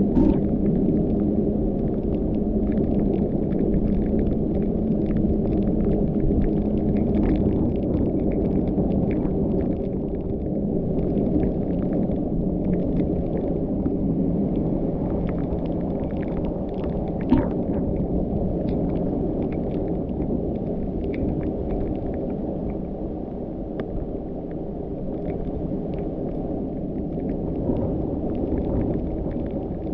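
A car driving: the steady low rumble of the engine and tyres on the road, with scattered light ticks and one sharper knock about seventeen seconds in.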